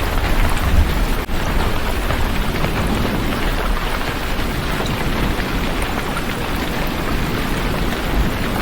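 Heavy rain falling steadily: a dense, even hiss with a deep low rumble underneath, and a momentary dip a little over a second in.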